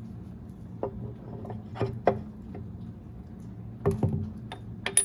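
Scattered clicks and knocks of metal parts being handled as a hydraulic cylinder piston is fitted back onto its rod. The knocks come singly or in close pairs about a second apart, over a steady low hum.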